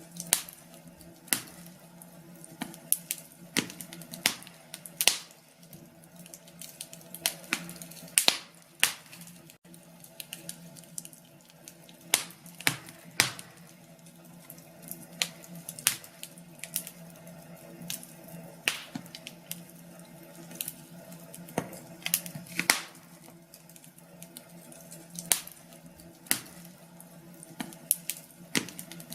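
Wood fire crackling in a fireplace: irregular sharp pops and snaps, loud and soft, over a faint steady low hum.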